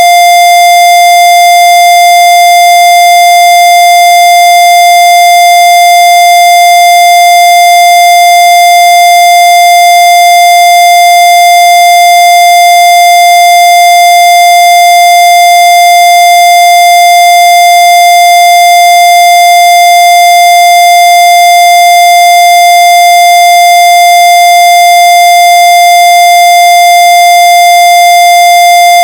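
Loud, steady electronic tone held at one unchanging pitch, with thin overtones above it and no rise, fall or break.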